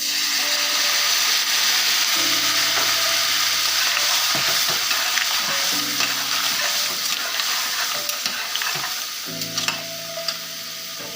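A pan of seafood sauce bursts into loud sizzling the moment an ingredient is added, then is stirred with light clinks of the utensil. The sizzle eases off near the end.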